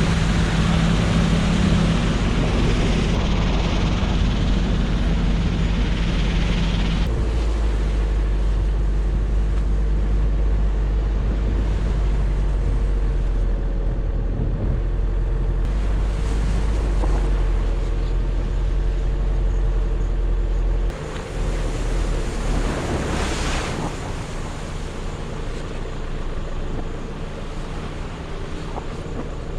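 Motorcycle engine running while riding, with wind buffeting the microphone in a heavy low rumble. The engine pitch holds steady for stretches and shifts a few times, and the wind rumble drops away about two-thirds of the way through.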